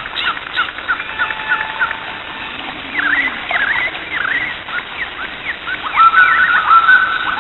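Birds calling and singing: many short chirps and slurred notes, with several held, whistled notes near the end.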